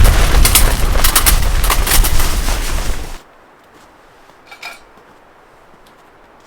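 Strong wind buffeting the microphone, a loud rumbling roar full of rapid sharp cracks, which cuts off abruptly about three seconds in. After that it is quiet, with one faint brief clatter.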